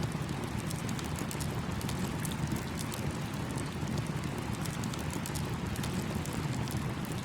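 Campfire crackling with many small, quick pops over the steady rushing burble of a small stream.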